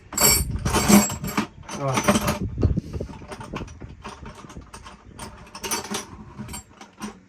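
Metal hand tools, wrenches among them, clattering and clinking as they are rummaged through. The clatter is busiest in the first few seconds, then thins to scattered clinks.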